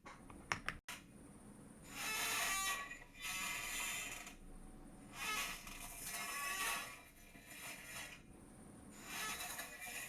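Chair creaking and squeaking in repeated spells about a second long, with a few sharp clicks near the start.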